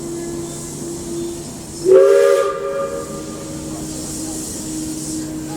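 Steam locomotive whistle sounding one short blast about two seconds in, rising slightly in pitch as it opens and fading within a second, over a steady hiss of escaping steam.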